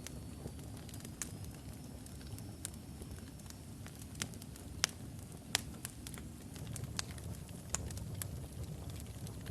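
Wood fire of burning logs in a fireplace: a steady low rumble of flame with scattered sharp crackles and pops, the loudest two near the middle. A faint high whistle rises slightly and fades out a few seconds in.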